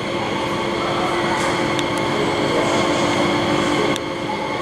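Steady hum of a stationary electric train's running equipment, with several fixed tones held over a noisy background. A sharp click comes about four seconds in.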